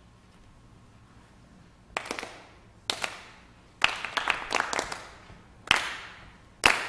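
Hands clapping a slow, steady beat, about one clap a second, starting about two seconds in; some claps land slightly apart, as from several people, and each trails off in echo.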